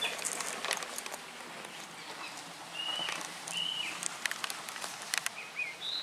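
Outdoor ambience with small birds giving a few short chirps, one higher than the rest near the end, and a few light clicks.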